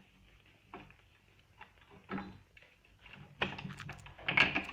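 Metal parts of an outboard motor's leg and clamp bracket clicking and knocking as they are pushed together by hand: a few light clicks, then a louder run of knocks and scraping in the last second and a half.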